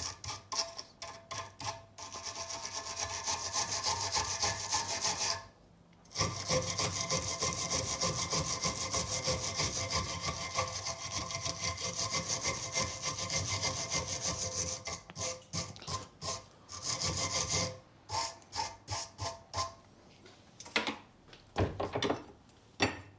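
Hand wire brush scrubbing rust and brake dust off a steel brake caliper carrier in rapid back-and-forth strokes. There is a brief pause about five seconds in, and the strokes thin out near the end.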